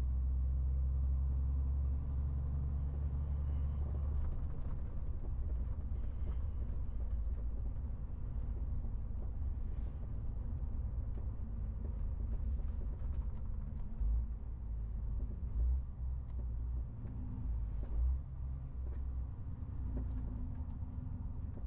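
MAN TGX 18.470 truck under way, its six-cylinder diesel and the road noise making a steady low drone. A few short low thumps come in the second half.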